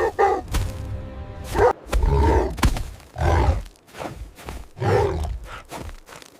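Background music with an animal calling loudly about five times, the calls coming at uneven intervals.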